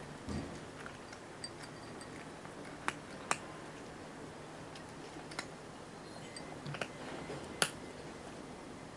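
A kitten eating from a dish: a few scattered sharp crunching clicks, with a soft low thump near the start.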